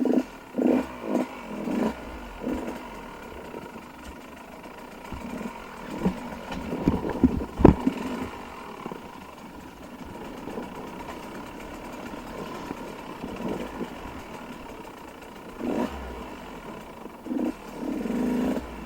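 Dirt bike engines running, with uneven throttle blips and short revs in bursts near the start, in the middle and near the end.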